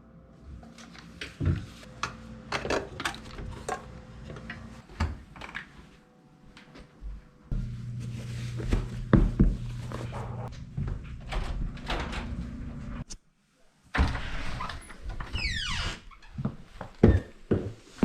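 Workshop handling noises in short cut-together segments: irregular metal clunks and knocks, a steady low motor hum in two stretches, and a falling whine like a machine spinning down near the end.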